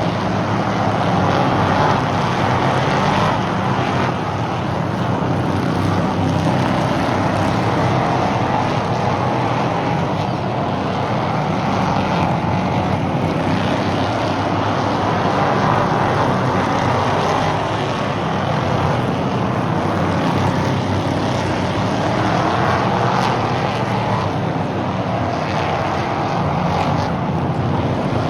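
Several stock car engines running at race speed around an oval track. The sound is loud and continuous, swelling and falling in pitch every few seconds as cars pass.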